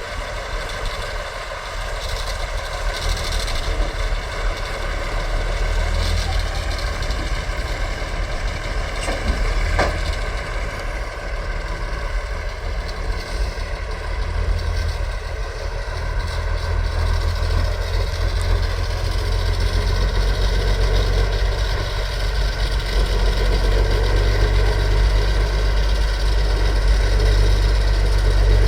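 Heavy off-road truck's diesel engine running, a deep steady rumble that grows louder toward the end.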